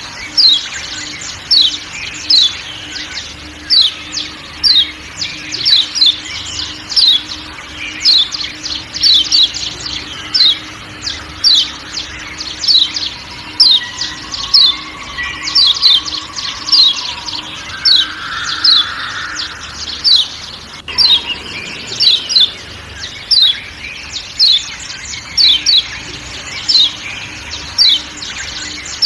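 Kecial kuning white-eyes (Zosterops) giving sharp 'ciak ciak' calls: short high falling chirps in quick twos and threes, repeated about every second, over a faint forest background.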